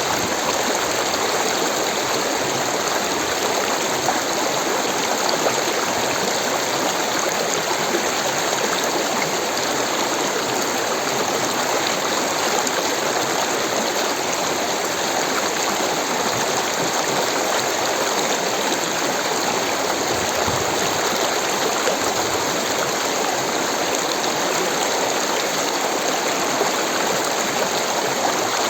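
Rushing water flowing in a steady, unbroken rush.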